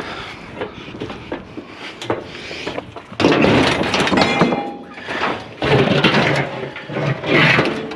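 Scrap metal being handled: light knocks at first, then about three seconds in, loud clattering and scraping with brief metallic ringing, twice.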